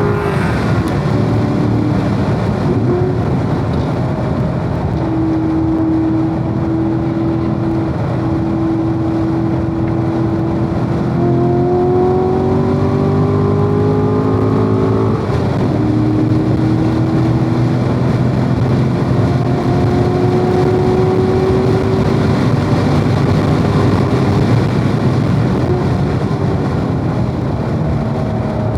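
Corvette V8 driven hard on a race track, the engine pitch climbing slowly under acceleration and dropping sharply just after the start and again about halfway through, over steady road and wind noise.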